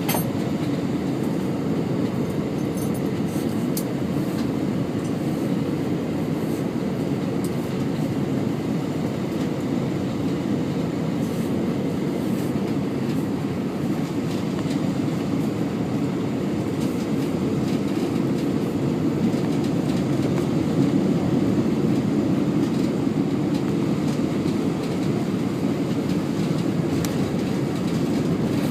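Steady low rumble of an Airbus A320 heard from inside the cabin during landing: engine and airflow noise with rolling rumble, growing slightly louder in the second half.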